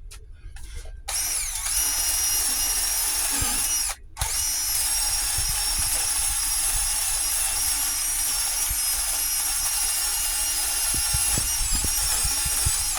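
Power sander running against body filler on a truck door: a steady high whine that starts about a second in, stops briefly about four seconds in, then starts again and runs on.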